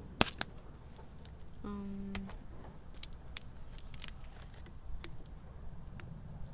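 Scattered sharp clicks and taps, with a brief low hum about two seconds in.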